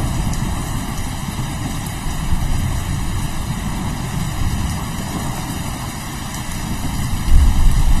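Steady rain hissing under a low, rolling rumble of thunder. The thunder swells suddenly and loudly near the end.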